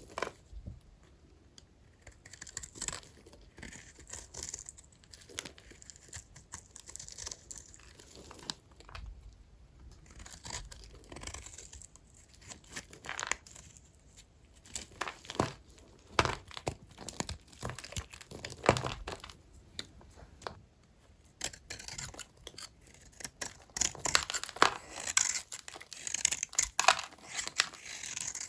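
Blade cutting through small, dry old hotel soap bars: irregular crisp cracks and scrapes, coming thicker and louder near the end.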